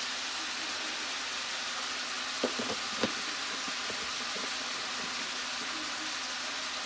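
Ground beef and dried minced onion sizzling steadily in a frying pan as the meat browns. A few light knocks come about two and a half to three seconds in.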